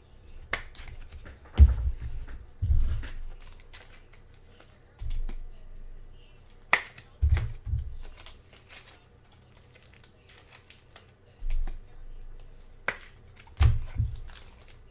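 Tabletop handling noises: irregular clicks and light rustles with a few dull thumps, about a second and a half in, around seven seconds in and near the end.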